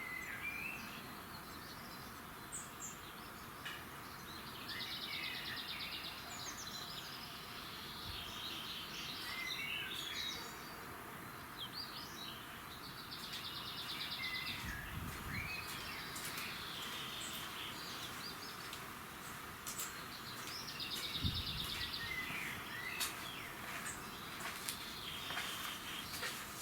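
Songbirds singing at dawn: several birds chirping, one repeating a trilled phrase about every eight seconds, over a steady outdoor hiss. Two brief low rumbles come in about halfway through and again later.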